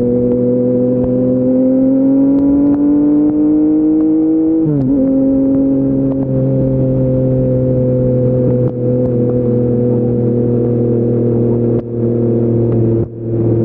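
Yamaha MT-09's inline-three engine through an Akrapovic full-system exhaust, climbing in revs under acceleration. About five seconds in, a quick upshift drops the pitch sharply, and the engine then runs steady, easing off a little.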